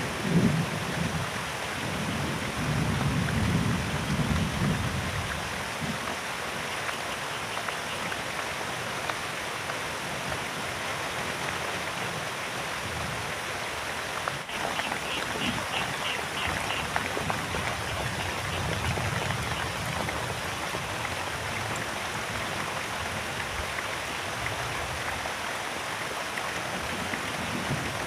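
Heavy rain falling steadily, with a low rumble of thunder in the first few seconds. A short run of faint, rapid high ticks comes about halfway through.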